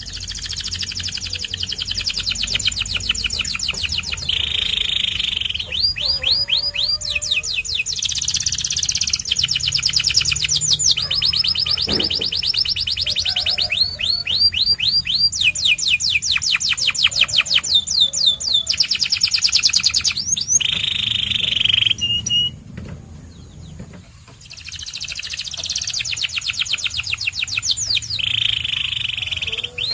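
Domestic canary singing a long song of rapid trills, each phrase a fast run of the same note repeated many times and changing to a new phrase every second or two, with a short break about 22 seconds in.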